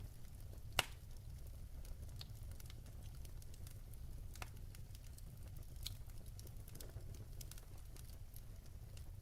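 Wood fire burning in a fireplace, crackling with scattered sharp pops over a steady low rumble. A louder pop comes about a second in, and another near the middle.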